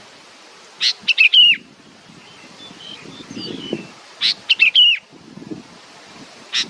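A bird chirping: one short note, then a quick run of three or four notes that each slide downward, about a second in. The same phrase repeats about four seconds in.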